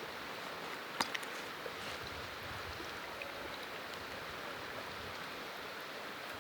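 Steady rushing of a river flowing, with a sharp click twice about a second in.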